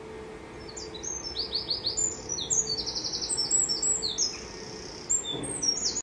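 A songbird singing a varied song of short high whistled notes and quick trills, starting about a second in, over a faint steady hum.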